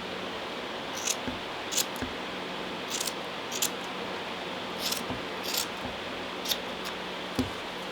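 Scissors snipping through wool yarn, about eight short crisp cuts roughly a second apart, trimming a wool pom-pom even.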